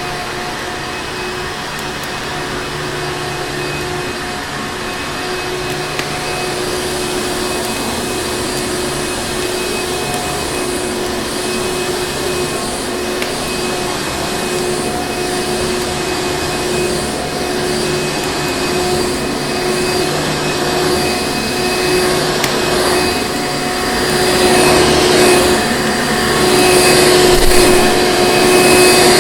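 Electric vacuum cleaner motor running steadily with a whine over its rushing air noise, getting louder toward the end and swelling and easing a few times in the last several seconds.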